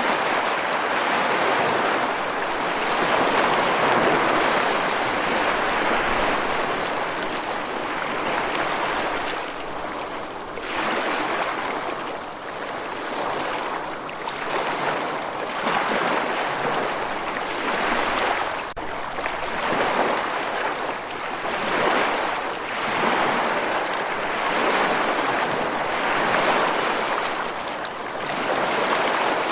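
Rushing water, a dense steady hiss that swells and eases every couple of seconds.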